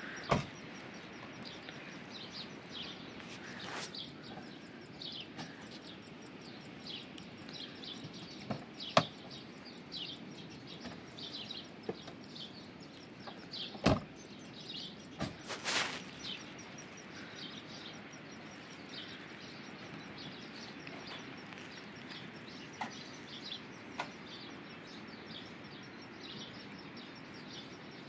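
A bird chirping over and over: short falling chirps about every half second, over a steady low background noise. A few sharp knocks come in between, the loudest about halfway through.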